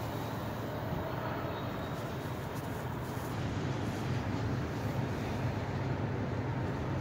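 Freight train heard at a distance: a steady low rumble.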